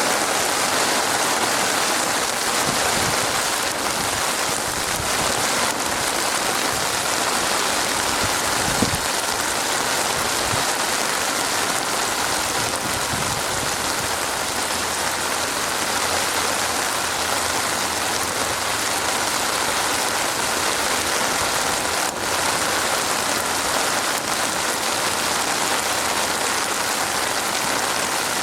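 Steady rain falling, an even dense hiss of drops on a surface, with a few soft low thuds along the way.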